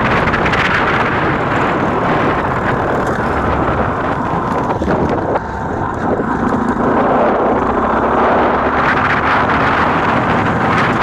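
Motorcycle engine running on the move, mostly buried under wind rushing over the microphone. The loudness drops briefly about five seconds in, then picks up again.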